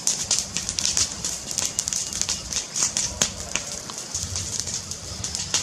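Fire crackling, with dense irregular pops and snaps over a low rumble.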